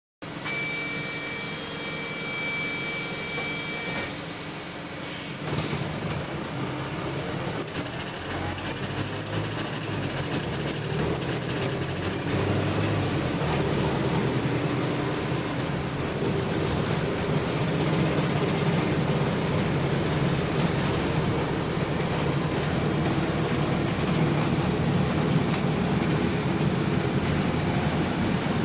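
Go-Ahead London bus WS120 heard on board while running, with steady engine and road noise and a steady very high whistle. A high tone sounds for the first four seconds, broken once. From about eight to twelve seconds in come loud, rapidly repeated high-pitched bursts, which may be the weird 'shooting' noise the bus makes.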